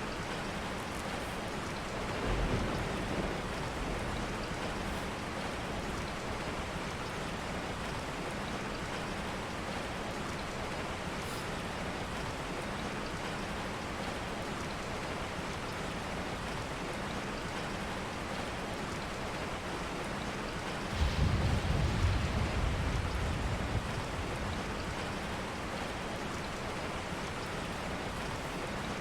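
Steady rain. Two low rumbles rise out of it: a brief one about two seconds in, and a louder one starting suddenly about 21 seconds in that lasts about three seconds.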